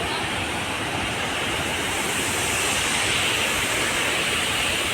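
Waterfall crashing into a river, a steady rushing roar of falling water, swollen and muddy with rain.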